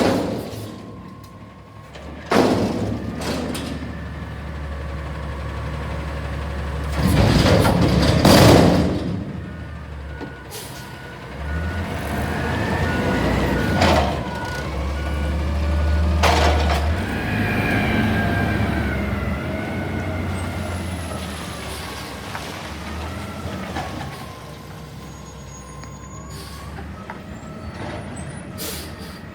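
CNG Peterbilt 320 front-loader garbage truck with a McNeilus Atlantic body working a dumpster: the engine runs and revs up and down to drive the hydraulics, with several sharp metal bangs and a loud hiss-like stretch partway through. A faint reversing beep sounds for a few seconds in the middle.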